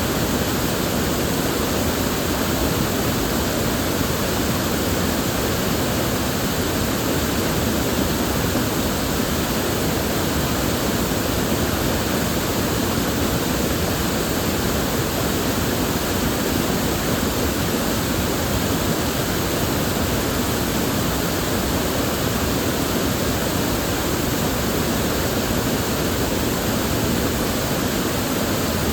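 River water flowing steadily, an even unbroken rush with no distinct splashes or breaks.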